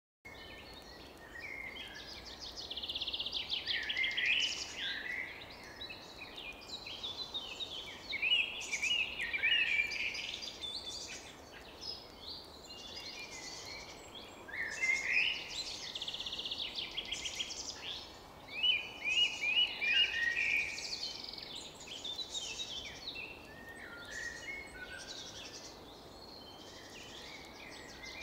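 Birds singing: several overlapping songs of chirps and fast trills carry on without a break, over a faint steady hiss.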